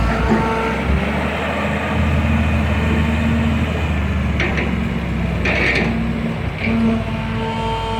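Heavy diesel engine running steadily with a low rumble, with a few short higher hissing or squeaking bursts about halfway through.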